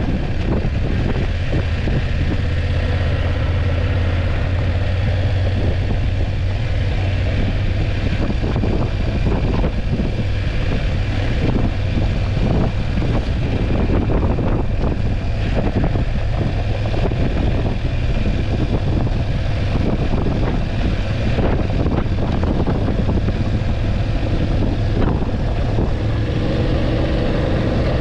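BMW F850GS parallel-twin engine running steadily as the motorcycle rides along, under wind and road noise with many short knocks.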